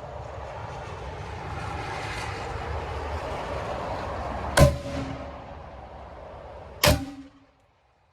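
Two gunshots about two seconds apart, each a sharp crack with a short ringing tail, over a steady background hiss. The hiss cuts out suddenly just after the second shot.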